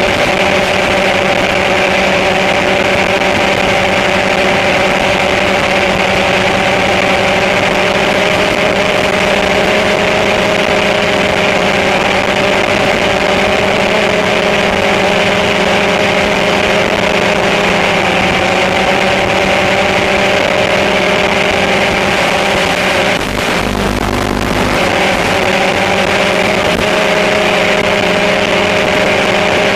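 Small drone's electric motors and propellers running steadily in flight, a constant whine over a whooshing hiss, with a brief dip and low rumble about three-quarters of the way through.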